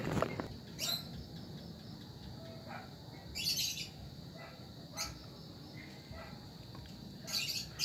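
Birds chirping in short, scattered bursts, about four times, over a faint steady high-pitched tone.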